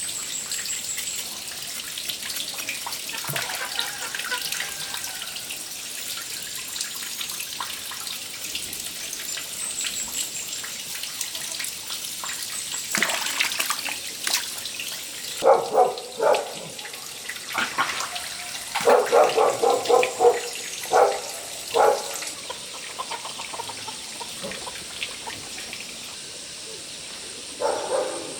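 Water running steadily from a tap into a sink, a hiss that lasts throughout. From about halfway through there are several bursts of short, loud animal calls.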